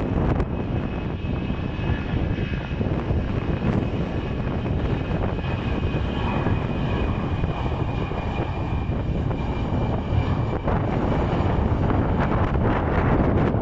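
Airbus A320 jet airliner passing on approach, its engines running with a steady high whine that fades out about ten seconds in, over wind rumble on the microphone.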